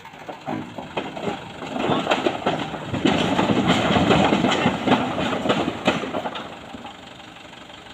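Vehicle engine run hard under load during a tow pull, with clattering and knocks; it swells about two seconds in, is loudest in the middle and eases off near the end.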